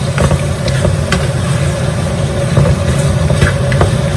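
Spoon stirring chicken curry in a cooking pot after the meat's boiling water has been added, with scattered clicks and scrapes against the pot over a steady low hum.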